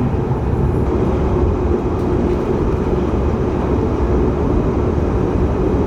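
Steady, loud low rumble of a vehicle in motion, with a faint steady hum over it.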